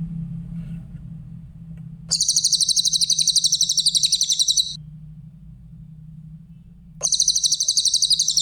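Cililin bird singing: two bursts of a rapid, high-pitched trill at about ten notes a second, the first starting about two seconds in and lasting about two and a half seconds, the second starting near the end. A low steady hum lies underneath.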